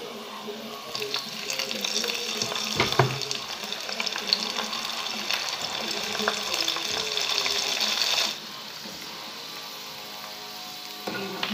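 Peanuts and red chilis frying in hot oil in a pan, sizzling and crackling. The sizzle swells about a second in and cuts off abruptly about eight seconds in, and a few light clicks follow near the end.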